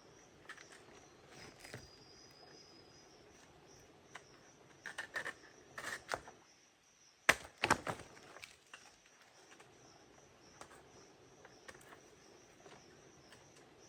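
Forest insects chirping steadily in a high, pulsing drone. A quick run of sharp clicks comes about five seconds in, then two or three loud sharp knocks about halfway through.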